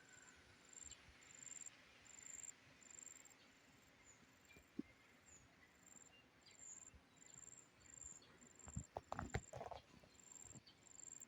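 Near silence in the open with an insect, likely a cricket, chirping faintly in short, high, evenly repeated pulses. A few soft knocks about nine seconds in.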